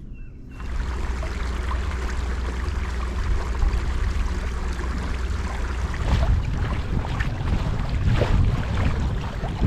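Wind buffeting the microphone over water sloshing against a kayak, starting suddenly about half a second in and growing louder near the end.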